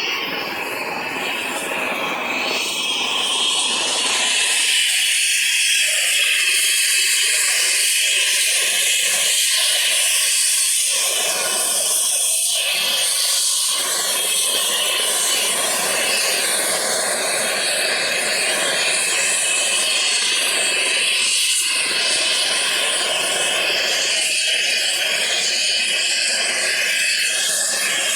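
Eurocopter EC135 helicopter running on the helipad: a steady high turbine whine with a loud hiss of rotor wash, holding level throughout.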